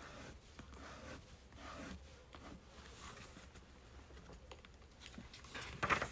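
Birch firewood burning, crackling with small irregular pops over a soft hiss, and a cluster of louder pops near the end.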